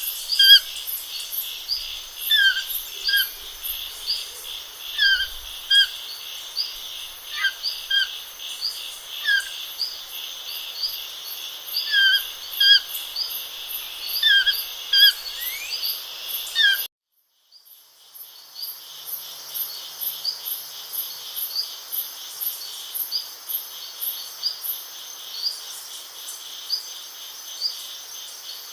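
Small birds calling in repeated short chirping notes over a steady, fast-pulsing insect chorus. About two-thirds of the way through, the sound cuts out for about a second, then the insect chorus resumes with only the odd bird call.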